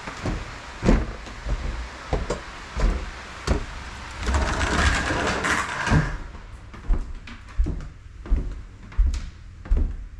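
A series of knocks and thumps, roughly one a second, with a rushing hiss for about two seconds from about four seconds in.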